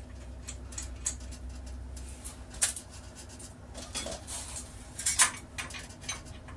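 Scattered light metallic clinks and taps of sheet steel and hand tools being handled, with two sharper knocks about two and a half and five seconds in.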